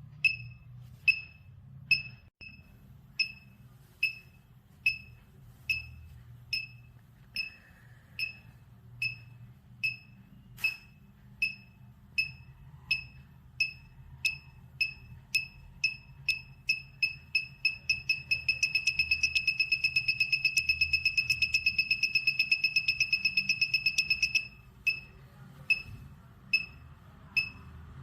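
Arduino buzzer giving short, high-pitched electronic beeps, about two a second at first, speeding up to a rapid near-continuous run about two-thirds of the way in and then slowing back down near the end. The beep rate rises as a magnet comes closer to the Hall effect sensor and falls as it moves away.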